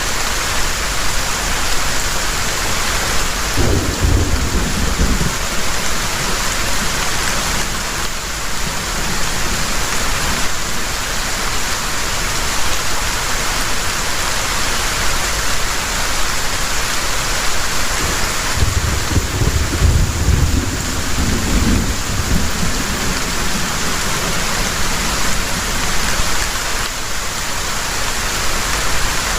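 Heavy rain falling steadily, with two low rolls of thunder: a short one about four seconds in and a longer one about two-thirds of the way through.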